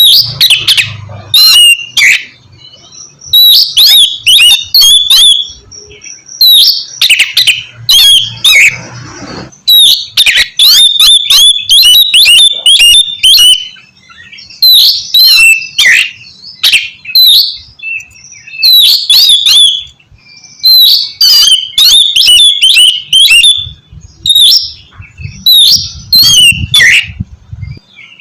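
Oriental magpie-robin (kacer) singing loudly: rapid phrases of sharp whistles and chirps in bursts of a few seconds, with brief pauses between them.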